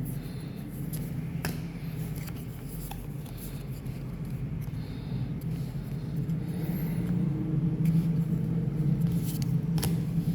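A steady low hum that grows a little stronger after the middle, with a few sharp light ticks of cards and packs being handled.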